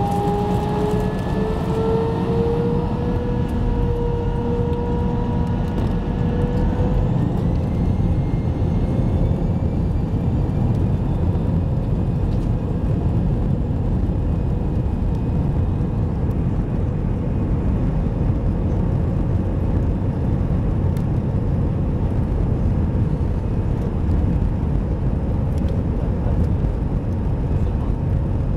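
Airbus airliner's jet engines spooling up for take-off: a whine rises in pitch over the first several seconds, then the engines run steadily at take-off power under a heavy, even rumble.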